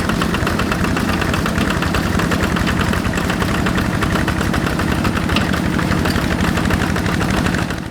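Yanmar single-cylinder diesel engine of a Quick G1000 hand tractor running steadily with a rapid, even knocking beat, fading out at the very end.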